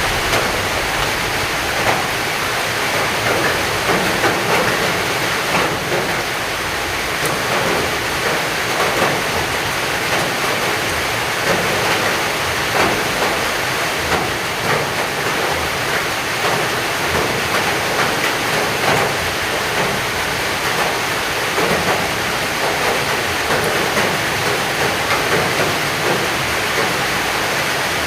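Heavy rain falling steadily: a dense, even hiss with many small drop impacts close by.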